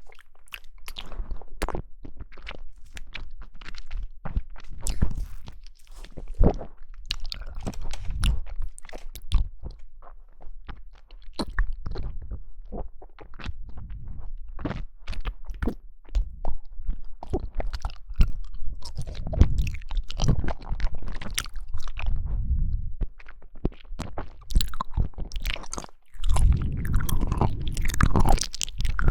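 A person chewing and biting jelly: a dense, irregular run of wet clicks and crunches, turning heavier and more squishy near the end.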